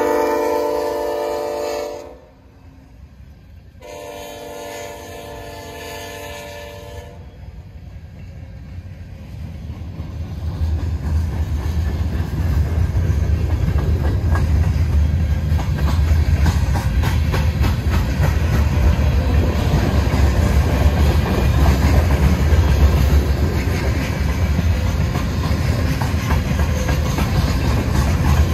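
Freight locomotive air horn blows one loud blast, then a second, quieter one about two seconds later. Then the passing freight train's low rumble builds and holds, with a clickety-clack of wheels over rail joints.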